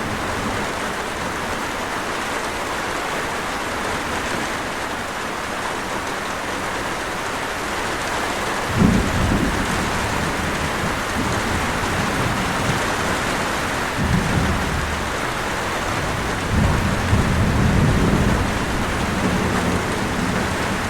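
Steady heavy rain, with rolls of thunder rumbling low beneath it, the first about halfway in with a sharp onset and more near the end.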